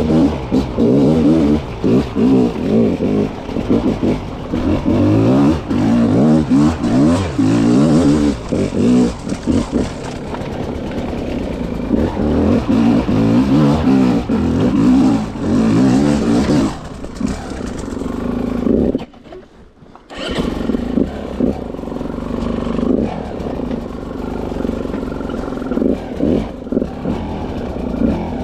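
300 cc two-stroke dirt bike engine revving up and falling back over and over under load. About 19 seconds in it drops away almost to nothing for about a second, then picks up again.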